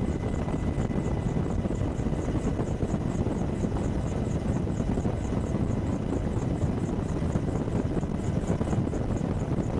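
AH-64 Apache helicopter's rotor and twin turbine engines running steadily: a dense, unbroken low rumble with a faint high pulsing repeating several times a second and faint steady electronic tones over it.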